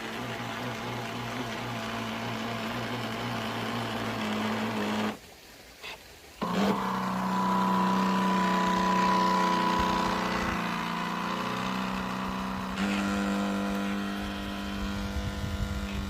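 Heng Long RC work boat's small motor running with a steady pitched whine. It drops almost away about five seconds in, then comes back louder and slightly higher, settling a little lower near the end.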